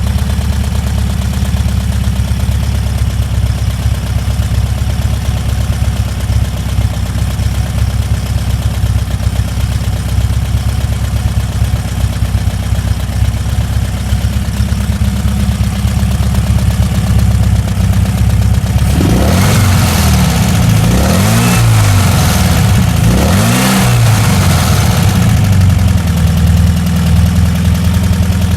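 Nova kit car's engine idling steadily, then revved up and let drop about three times over a few seconds in the second half before settling back to an even idle. The engine is running again after 29 years laid up.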